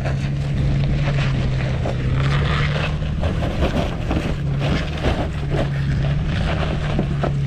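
Off-road SUV engine running at steady low revs while the vehicle holds or creeps on a rock climb, with scattered light clicks and crunches over it.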